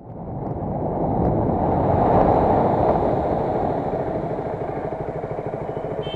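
Motorcycle riding under power, with the engine and rushing air swelling over the first two seconds, then settling into a steady, evenly pulsing engine note.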